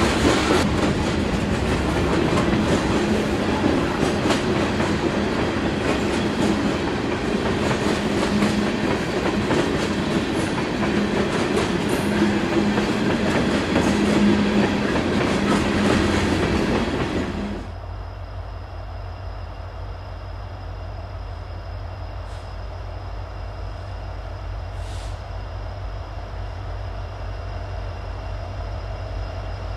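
Freight train cars rolling past on the rails with clickety-clack wheel noise. A little over halfway through, it cuts off abruptly to a quieter, steady low rumble.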